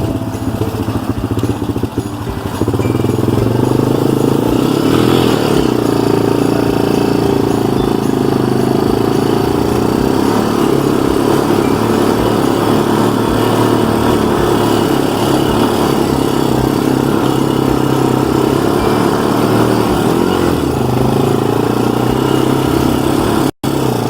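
A vehicle's engine running hard at steady high revs in the snow, getting louder about two and a half seconds in and holding there, then cut off abruptly just before the end.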